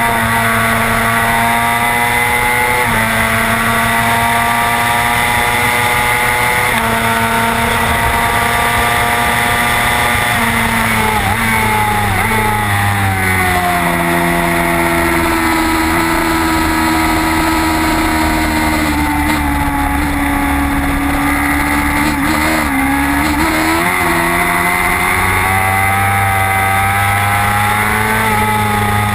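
Race motorcycle engine heard from onboard. It runs at high revs with a couple of brief shifts in the first several seconds, then its pitch falls about ten to fourteen seconds in as the bike slows. It holds lower for a while, dips once more, and climbs again near the end as the bike accelerates.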